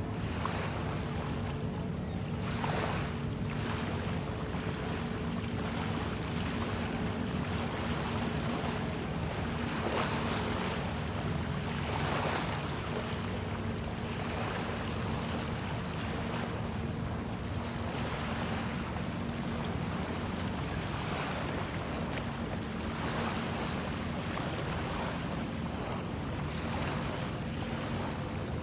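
Small waves washing ashore, with swells of louder surf every few seconds and wind on the microphone. Under it runs a steady low engine hum.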